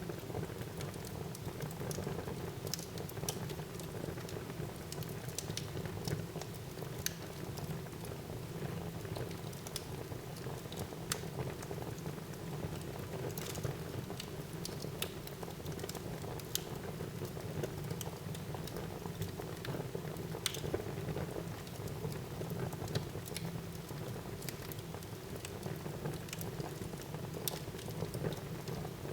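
Wood fire burning in a fireplace: a steady low rumble under irregular sharp crackles and pops.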